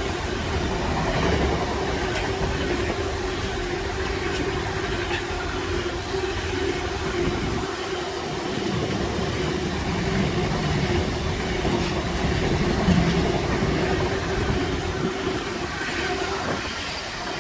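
Intermodal freight train hauled by a Class 66 diesel locomotive passing through the station, its long rake of container wagons rumbling and clattering steadily along the rails. It dies away at the very end.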